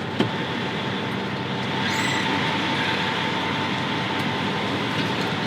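Semi truck's diesel engine idling with a steady, even hum.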